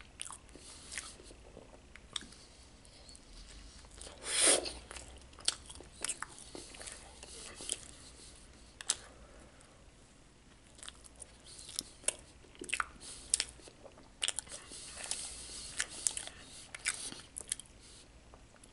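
Close-up chewing and lip-smacking of a person eating a soft frosted donut, a run of small wet clicks and smacks. One louder mouth noise comes about four and a half seconds in.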